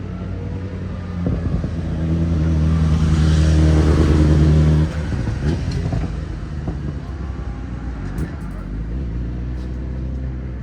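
A motor or engine running with a steady low hum. It swells for a few seconds and drops back abruptly about halfway through.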